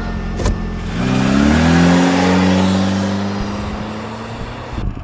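Car engine revving: it rises in pitch about a second in, holds, then slowly dies away before cutting off abruptly near the end.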